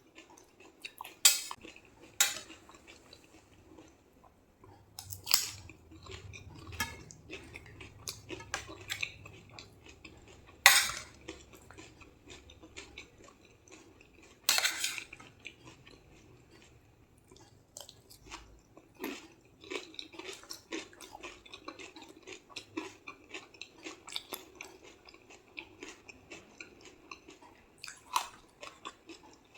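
A person biting into crisp pani puri shells and chewing them: several sharp, loud crunches scattered through, with a steady run of smaller chewing crackles in between.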